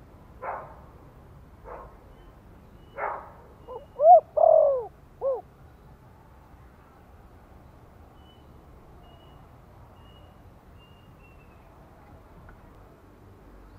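Spotted dove cooing one phrase: a few short soft notes, then three clear coos a little over a second in all, the middle one longest and loudest. After that only faint high chirps of small birds are heard.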